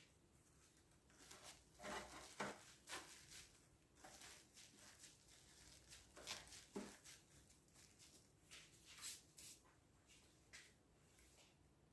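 Faint, scattered soft clicks and rustles of biscuits being laid into a loaf pan.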